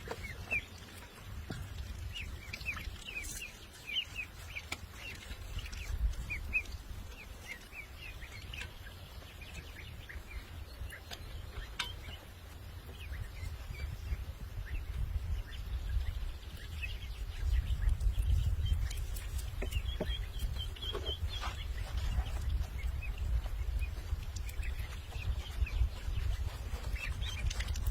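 Small birds chirping in short scattered calls, with a quick run of repeated chirps about twenty seconds in, over a steady low rumble that grows louder partway through.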